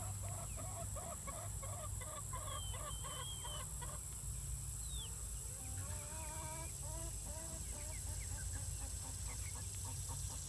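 A flock of chickens clucking as they eat: a quick run of short repeated clucks, about three a second, over the first few seconds, then scattered clucks and a few high, falling peeps.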